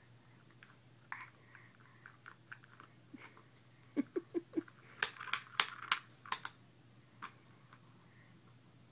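Plastic Barrel of Monkeys lid being handled by its handle, clicking and knocking. Scattered light taps give way to four quick knocks about four seconds in, then a burst of sharp, loud clicks over the next second and a half.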